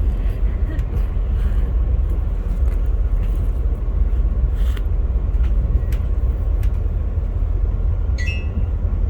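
Via Rail passenger train running, heard from inside the coach: a steady low rumble with scattered light clicks, and a brief high squeak about eight seconds in.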